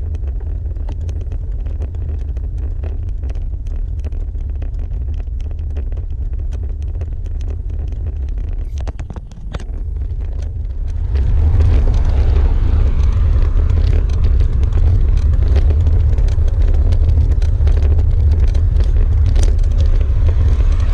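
Wind rumbling on the microphone of a camera carried on a bicycle during a ride, with faint scattered clicks over it. The rumble dips briefly, then grows louder about eleven seconds in.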